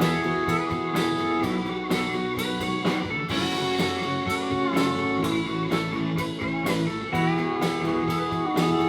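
Live band playing an instrumental passage between sung verses: guitar notes, some of them bent, over sustained chords and a steady drum beat.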